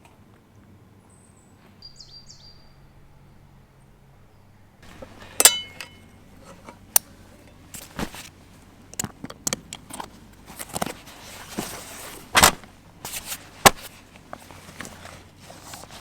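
Irregular sharp knocks, clicks and rustles, like someone walking about and handling things, starting about five seconds in; one early knock has a brief metallic ring. Before them, a few faint high chirps.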